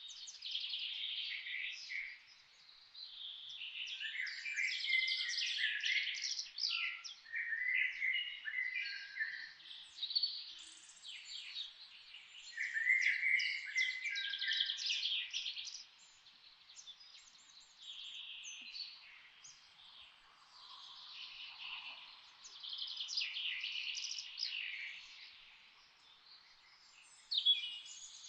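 Songbirds chirping and singing in the forest, several overlapping phrases of quick, high chirps and trills that come in bursts a few seconds long with short quieter gaps between.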